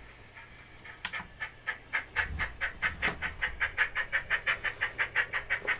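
Sound-decoder steam exhaust chuffs from a Graham Farish N gauge SECR N class model locomotive's small speaker. They start about a second in and quicken into an even beat of about six to seven chuffs a second, as the loco runs at speed.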